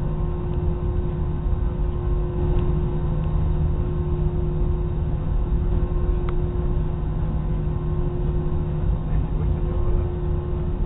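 Steady drone of an airliner's engines inside the passenger cabin, a constant low hum with fixed tones under it.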